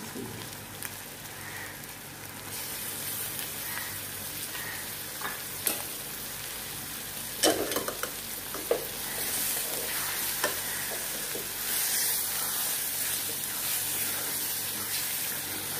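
Pieces of raw liver sizzling as they fry in a thick onion-tomato masala in a metal pot, stirred with a spatula. The hiss grows louder a couple of seconds in and again about halfway through, with a few sharp knocks of the spatula or the pieces against the pot.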